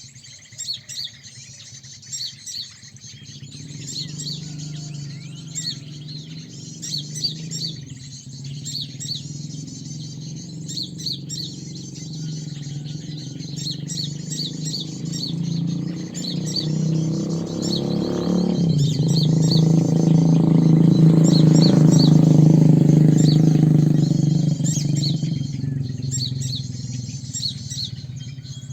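Small birds chirping in rapid, repeated high calls throughout. A low rumble swells from a few seconds in, is loudest about three-quarters of the way through, and fades near the end.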